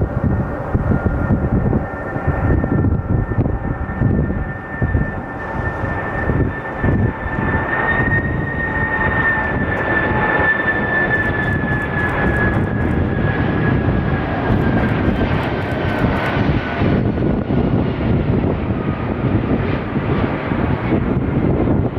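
Jet airliner engines running as the plane passes: a dense rumble with a high engine whine that grows louder toward the middle, then slowly drops in pitch through the second half.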